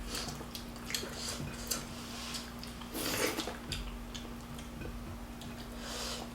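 Eating sounds at a meal: scattered light clicks and clinks of dishes and utensils, with two longer rustling mouth or food noises about three seconds in and near the end, over a faint steady hum.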